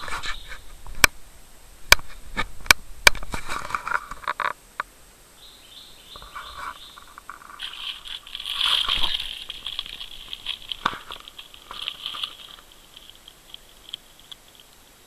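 A few sharp clicks and knocks in the first few seconds, with bursts of short, high chirping calls from birds and a brief rustle near the middle.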